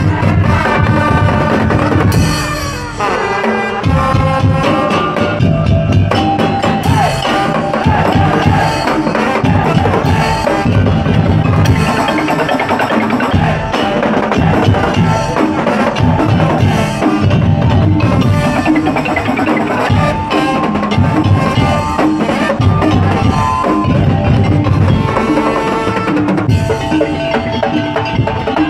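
Madurese daul (tong-tong) music played live by a parade ensemble: dense, heavy drumming under a melody line, with a falling pitch glide about two seconds in.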